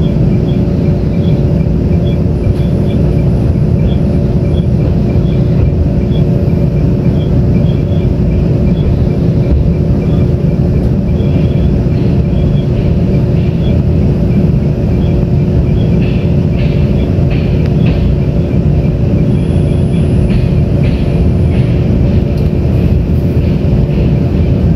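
Inside a moving Tze-Chiang express passenger train: a loud, steady rumble of wheels running on the track with a constant hum, light regular ticking, and a few faint clicks in the second half.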